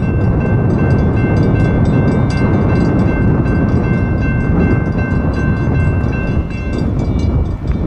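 Train passing close by: a loud steady rumble with rapid regular clicking. Over it runs a steady high-pitched ringing of several tones, which stops about seven seconds in.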